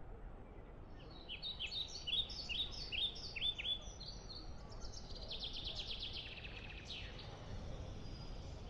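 Small songbirds chirping: a run of quick falling notes, then a fast trill about halfway through, over a steady low background rumble.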